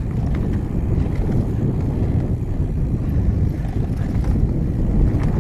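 Wind rushing over the microphone and a mountain bike's tyres rumbling along a dirt trail at riding speed, with a few light rattles.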